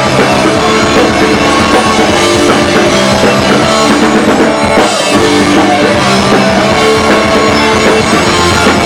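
Live rock band playing an instrumental passage: distorted electric guitars over a steady drum kit, loud.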